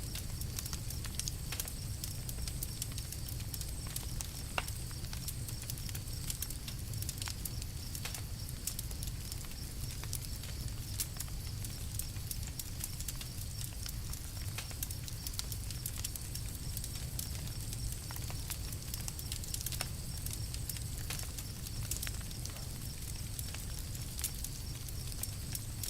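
Campfire crackling, with frequent small irregular pops and snaps over a steady low rumble of the burning fire.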